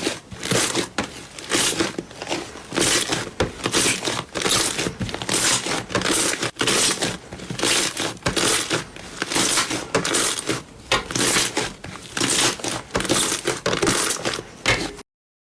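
Slime being squeezed and pressed by hand, a run of crackling, crinkly squishes several times a second. It cuts off suddenly near the end.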